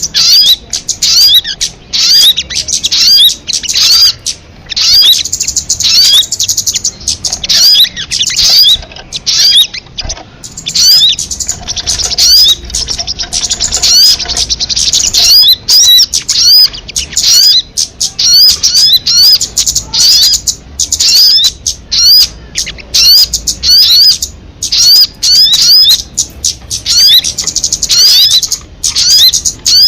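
Sogon (crimson sunbird) song: a rapid, unbroken string of short, high, rising chirps, several a second, in phrases with only brief gaps.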